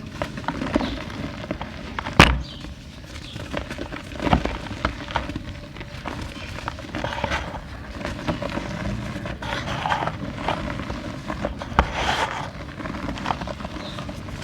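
Small dry clay pots being crushed and crumbled by hand: irregular crunching and crackling, with a sharp crack about two seconds in and a few more loud snaps later.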